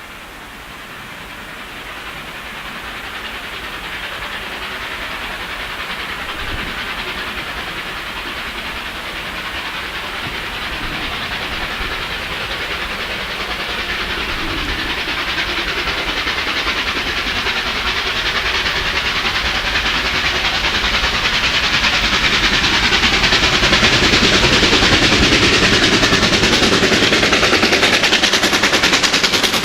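Two Victorian Railways R class steam locomotives, R707 and R761, double-heading a train and drawing nearer: their steam exhaust and the train on the rails grow steadily louder throughout.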